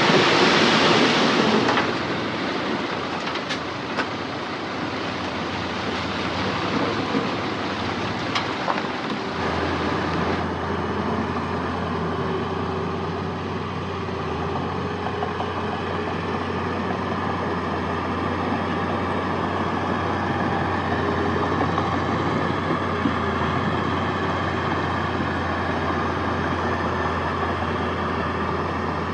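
Heavy diesel earthmoving machinery running steadily, after a loud rushing noise in the first two seconds; a deep steady hum joins in about nine seconds in.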